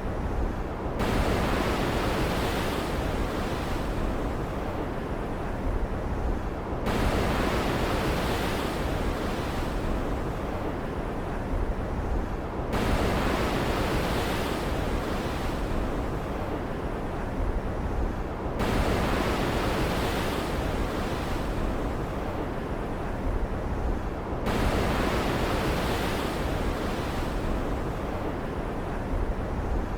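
Stormy ocean ambience: a steady rush of waves and rain. The hiss brightens and dulls in turns, with sudden changes about every six seconds.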